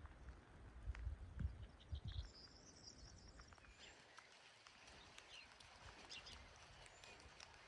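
Faint outdoor ambience with birds chirping: a quick run of high chirps about two and a half seconds in, then scattered short calls. Low rumbling bumps in the first two seconds.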